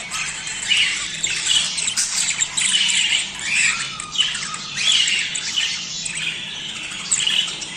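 A flock of budgerigars chattering: many short chirps and warbling notes overlap with no pause. The uploader presents it as budgie mating chatter.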